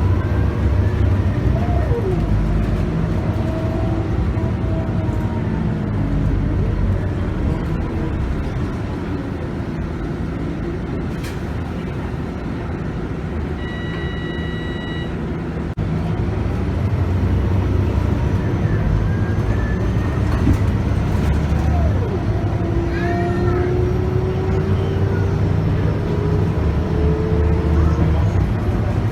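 Scania K280UB bus's 9.3-litre five-cylinder diesel running under way, heard on board, with its ZF Ecomat automatic gearbox. The engine eases a little, then picks up again about halfway through, with a whine rising in pitch near the end. A short electronic beep sounds about halfway through.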